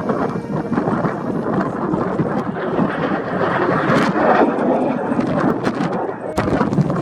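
Jet noise from Kawasaki T-4 aircraft mixed with strong wind buffeting the microphone: a dense, rough rush.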